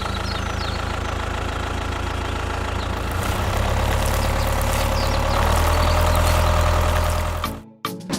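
Engine running steadily with a low hum. It gets louder around the middle and cuts off abruptly near the end.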